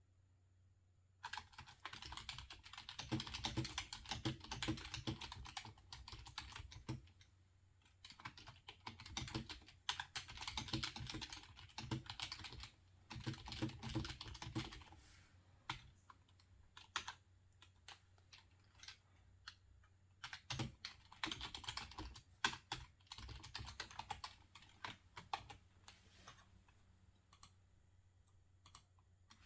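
Typing on a computer keyboard, starting about a second in and going in runs of quick keystrokes with short pauses between them.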